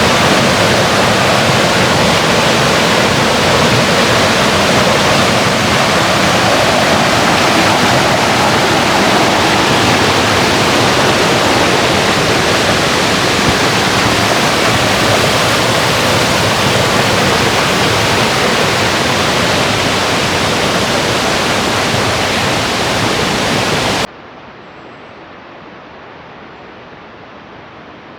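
Loud, steady rushing noise, like fast water or wind, that cuts off abruptly about 24 seconds in, leaving a much quieter steady hiss.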